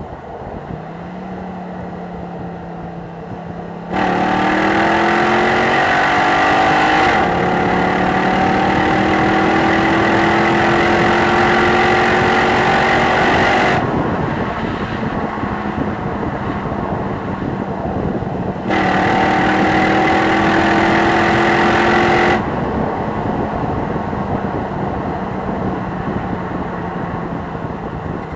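Jeep Grand Cherokee SRT8's 6.1-litre Hemi V8 running at a steady cruise, then accelerating hard about four seconds in, its pitch climbing with a gear change partway through before the throttle lifts. A second, shorter burst of throttle comes later, and then it settles back to cruising.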